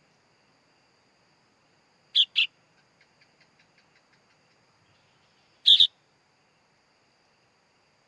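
Sooty-headed bulbul (kutilang) chick calling: a loud, harsh double call about two seconds in and another about six seconds in, with a run of faint quick ticks between them.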